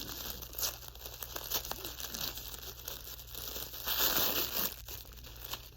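Packaging being crinkled and torn by hand while a box is unpacked, with scattered small clicks and a louder stretch of crinkling about four seconds in.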